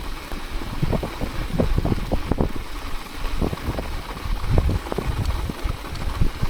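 Bicycle tyres crunching through deep snow, a run of irregular crackles over a low rumble of wind on the microphone.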